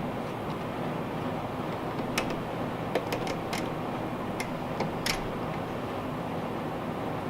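Small metal parts and tools being handled on a removed generator carburetor: a scatter of light clicks and taps, about eight in three seconds, over a steady background noise.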